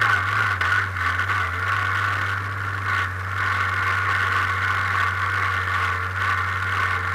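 Off-road endurance race car's engine running low and steady as the car rolls slowly, with rattling from the car, heard from inside the cockpit.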